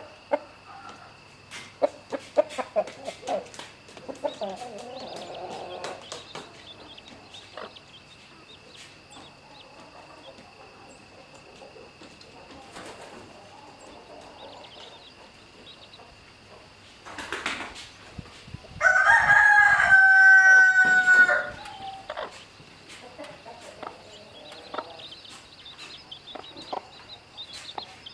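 A rooster crows once, a single long call of about two and a half seconds and the loudest sound here. Around it, chickens cluck softly, with scattered sharp clicks in the first few seconds.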